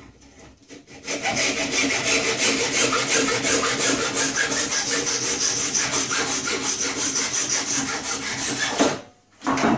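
A saw cutting off a piece, with rapid, even rasping strokes. It starts about a second in and stops suddenly near the end.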